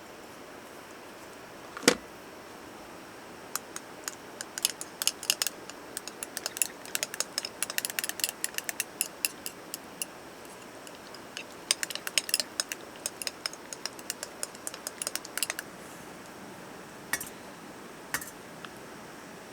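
A single knock, then long irregular runs of quick light clicks and clinks of small hard objects being handled, with a short pause midway and a few more clicks near the end.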